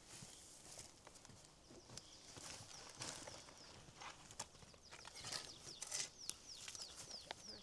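A small bird calling in a rapid series of short, high, falling chirps, denser in the second half, over scattered light clicks and knocks.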